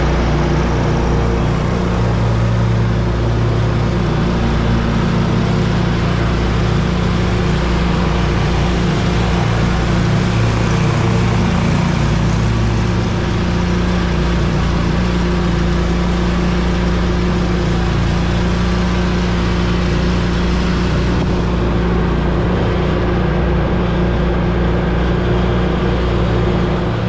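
Riding lawn mower engine running steadily, loud and close to the microphone.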